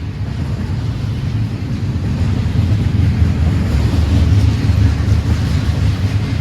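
Freight train rumbling past with wind on the microphone; the rumble swells a little midway.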